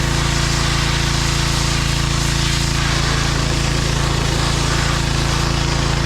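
John Deere 1025R compact tractor's three-cylinder diesel engine running steadily while working its backhoe.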